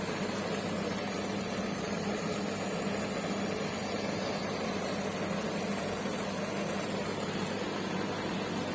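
Aquarium pumps and filters running: a steady hum with an even rush of moving water, unchanging throughout.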